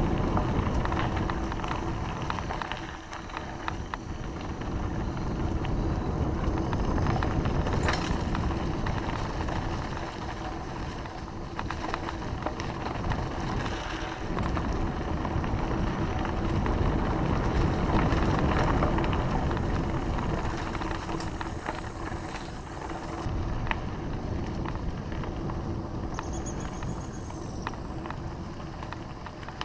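Bicycle being ridden downhill, with wind rushing over the microphone and the tyres rumbling on the road, and a few sharp clicks and rattles from the bike.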